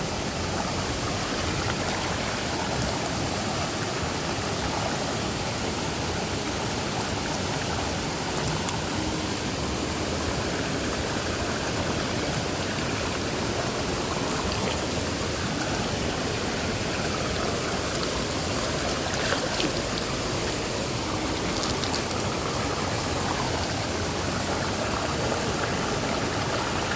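Steady, even rushing noise, with a few faint short clicks, the clearest about two-thirds of the way through.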